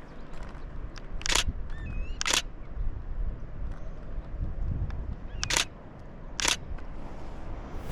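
Canon Rebel T7i DSLR shutter firing four single shots, in two pairs about a second apart, over a low rumble of wind on the microphone.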